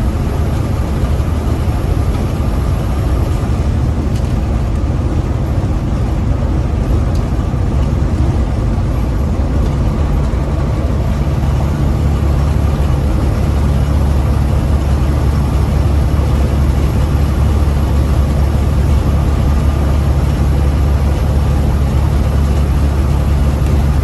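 Big rig's diesel engine running steadily under way, a deep low drone heard from inside the cab. It grows a little louder about halfway through.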